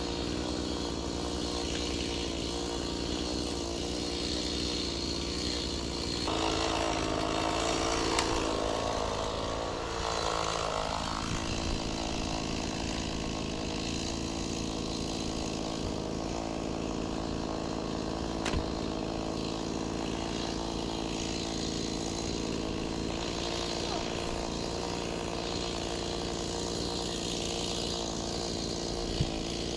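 Stihl chainsaw running steadily while cutting oak rounds into firewood, its engine note shifting and then sinking between about six and eleven seconds in.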